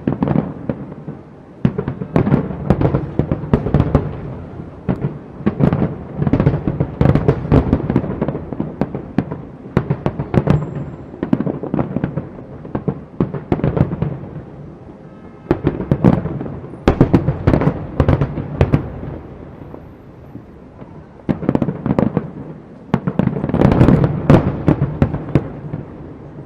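Aerial fireworks bursting in rapid volleys of sharp bangs and crackles, each volley followed by a rumbling echo, with brief lulls between them.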